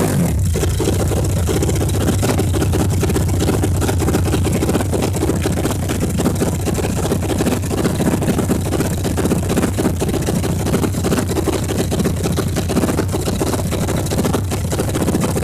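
Speedboat engine running steadily at idle, a loud, even low drone.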